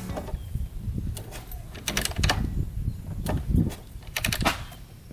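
Irregular clicks and light knocks of handling work on the dirt bike, a quick run of them about two seconds in and again just past four seconds, over a low rumble.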